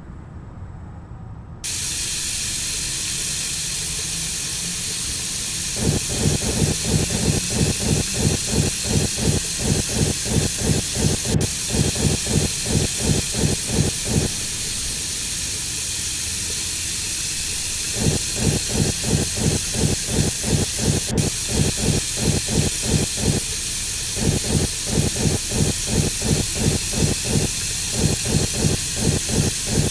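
Girbau HS4012 commercial washing machine mid-wash: water hissing into the drum starts suddenly and runs steadily. Over it, the drum turns in three spells of rhythmic churning, about four pulses a second, with short pauses between them, the stop-and-go drum action of a wash cycle.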